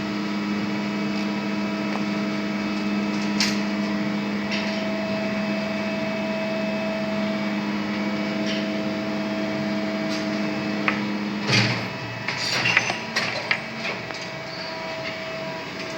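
Three-phase geared motor of a coil winding machine running with a steady hum, then stopping about eleven seconds in, followed by several clicks and knocks.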